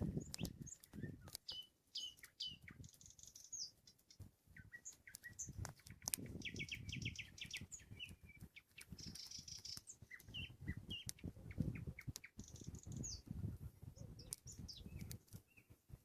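Nightingale singing varied phrases of whistles and chirps, with a rapid run of repeated notes about six seconds in, over intermittent low rumbling.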